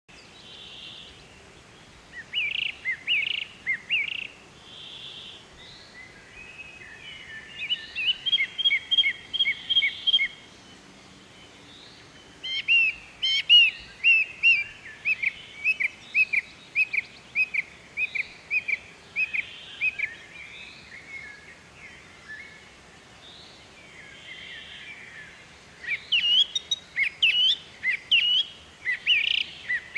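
Songbirds singing: phrases of quick, repeated chirps and whistles come and go, the busiest stretch in the middle, over a faint background hiss.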